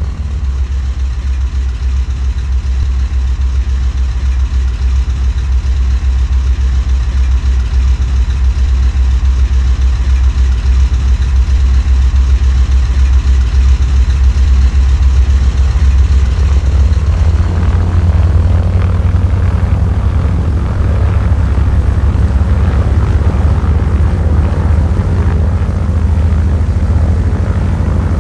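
The Wright R-3350 radial piston engines of a B-29 bomber running, a deep, rapid pulsing drone with propeller noise. The sound grows louder and fuller about two-thirds of the way through.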